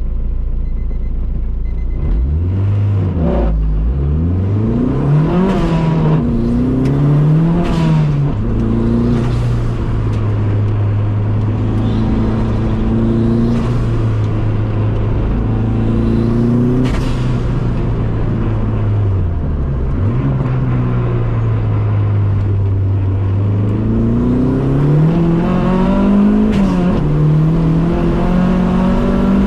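Car engine, a Dodge Neon ACR with a swapped-in SRT-4 engine, being driven hard. In the first eight seconds it climbs through the revs and drops back several times, as in a run of gear changes. It then holds a steady pitch for long stretches, dips briefly around twenty seconds in, and climbs through the revs again near the end.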